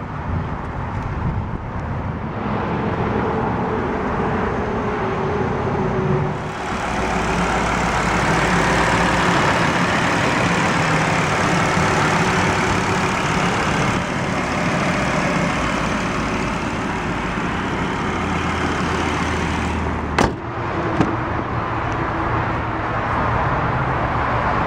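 Steady road traffic noise from passing vehicles, a continuous rush that swells for a stretch in the middle and then eases. A single sharp click about twenty seconds in.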